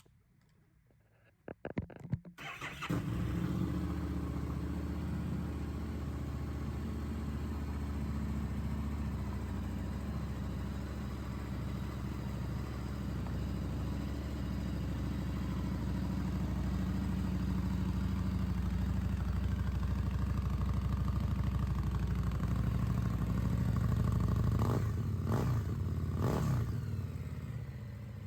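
Harley-Davidson Street Rod 750's liquid-cooled 749cc Revolution X V-twin, fitted with a Vance & Hines exhaust, cranks and starts about two seconds in, then idles steadily. Near the end it is blipped three times and settles back to idle.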